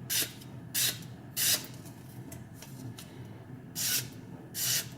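A freshly sharpened knife edge slicing through paper to test its sharpness: a series of short, hissing cuts, with a pause of about two seconds in the middle.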